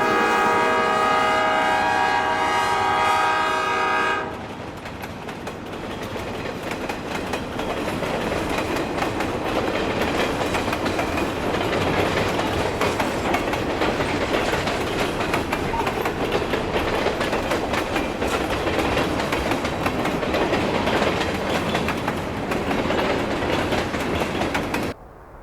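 Diesel locomotive horn sounding a long multi-note chord that stops about four seconds in, followed by a freight train rolling past with a steady rumble and clickety-clack of wheels over rail joints.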